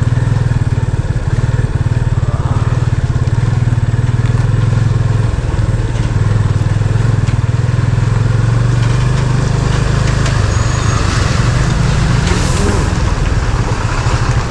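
Motorcycle engine running steadily at cruising speed, with a constant hiss of wind and road noise over it.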